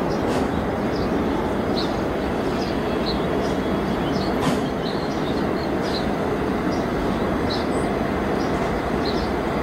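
Steady, loud rumble of a four-engine Boeing 747-200 jet airliner landing, with short faint high chirps recurring above it.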